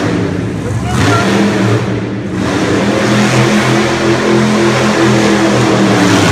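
Monster truck engine running hard under heavy throttle. It eases briefly about two seconds in, then climbs back and holds high revs.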